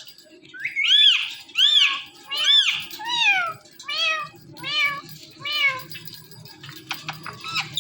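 Talking parrot imitating a cat's meow: about seven quick meows in a row, each rising then falling in pitch, followed by a few short sharp calls near the end.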